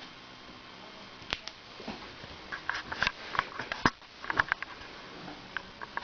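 A kitten scampering after a light spot: irregular quick taps and clicks of its paws and claws on a hard floor, starting about a second in and coming in clusters.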